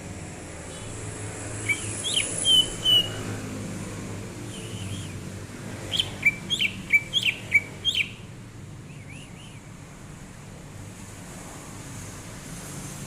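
Cucak ijo (green leafbird) singing: a few clear whistled notes, then a quick run of about six sharp notes that sweep downward, over a low steady background hum.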